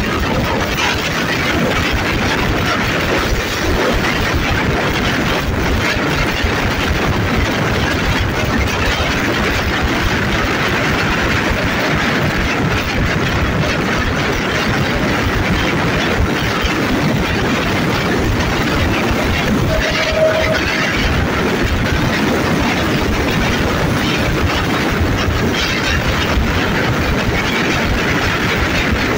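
Alstom diesel-electric locomotive number 4135 running at the head of a passenger train, heard from the coach right behind it. Its engine noise is steady and mixed with the rumble and clatter of the wheels on the rails.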